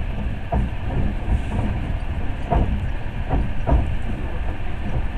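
Passenger train carriage running, heard from inside: a steady low rumble with a few wheel knocks over the rail joints, bunched in the middle.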